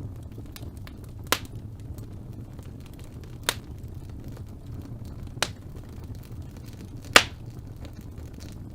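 Fire burning in a fireplace: a steady low flame noise with faint crackling and four sharp pops about two seconds apart, the last the loudest.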